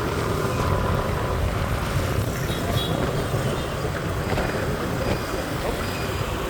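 Street traffic heard while riding through it: a steady mix of vehicle engines, mostly motorbikes, and road and wind noise.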